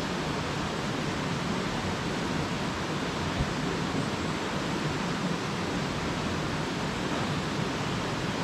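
Mountain stream rushing: a steady, even wash of flowing water, with one short knock about three and a half seconds in.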